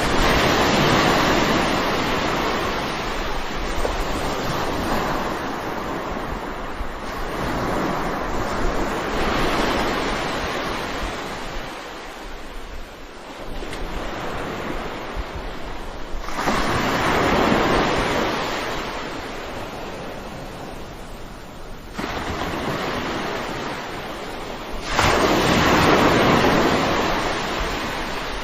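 Ocean surf: waves breaking and washing in, in about four slow surges that build and fade over several seconds each, the strongest near the middle and near the end.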